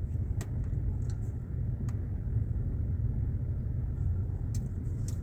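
Car driving along, heard from inside the cabin: a steady low engine and road rumble, with a few faint clicks.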